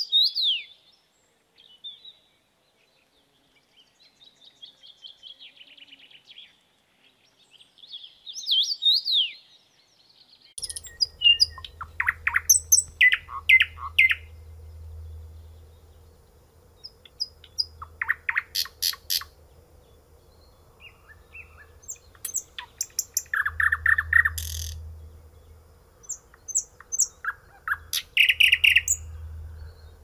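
Small birds chirping and trilling: a few whistled calls and a trill at first, then from about ten seconds in a busier run of sharp, high chirps and trills over a faint steady hum.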